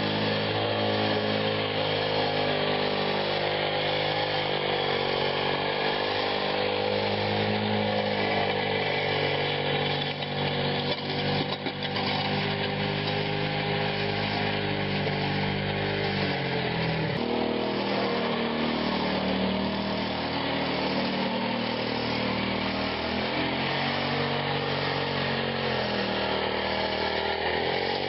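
Small engine running steadily, its speed shifting briefly about two-thirds of the way through and then settling again.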